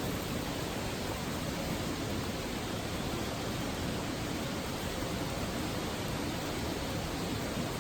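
A steady, even rushing noise with no crackles or distinct events.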